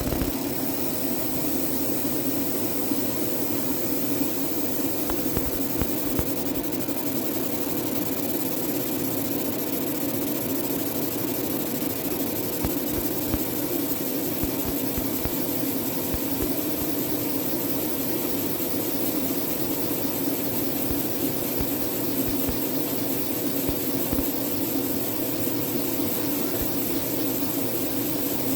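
30W fiber laser marking machine running: a steady fan hum with a high hiss and faint, irregular crackle as it marks.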